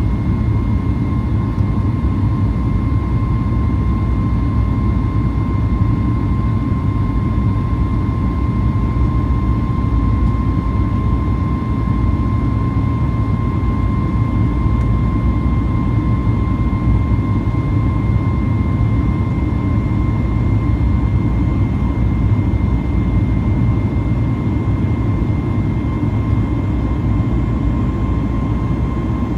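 Steady jet-engine and airflow noise inside the cabin of a Boeing 737 MAX 8 under way: a heavy low rumble with a constant whine at two fixed pitches from its CFM LEAP-1B turbofans.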